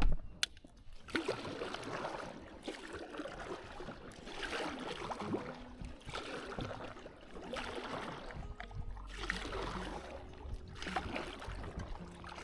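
Kayak paddles dipping and splashing in river water, the splashes swelling every second or two over the running water. Faint music comes in during the second half.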